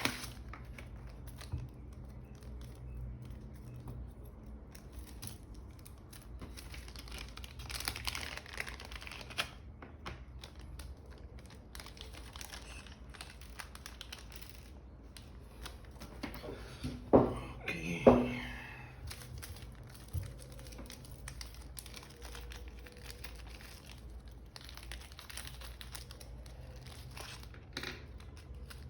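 Light rustling and crinkling with small clicks as objects are handled by hand, over a low steady hum; about two-thirds of the way through come two sharp knocks a second apart.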